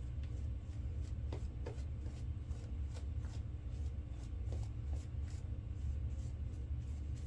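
A shaving brush working up lather with quick, irregular brushing strokes, over a steady low hum.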